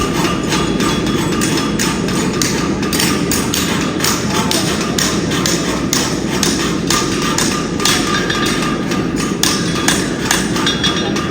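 Axes chopping into wooden logs: irregular sharp strikes, several a second, over a steady background din.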